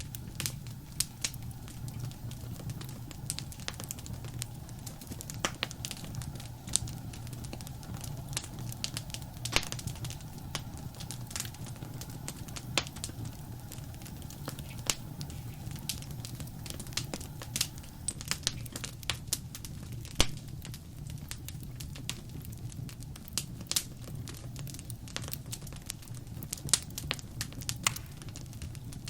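Wood fire crackling in a fireplace: irregular sharp pops and snaps of varying strength over a steady low rumble of the flames.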